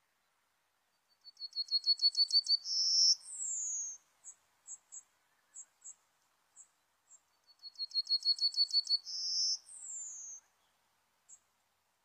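Yellowhammer singing twice: each song is a quick run of about ten repeated high notes ending in a longer held note and a falling note. Short high chips come between and after the songs.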